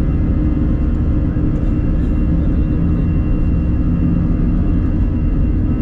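Airblue jet airliner taking off at take-off thrust: a loud, steady rumble with a steady whine above it.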